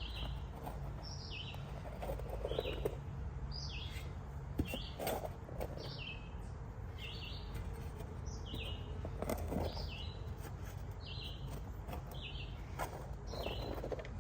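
A bird calling over and over, a short high falling note about once a second. Under it, a shovel scrapes into hard, rocky, compacted dirt four times.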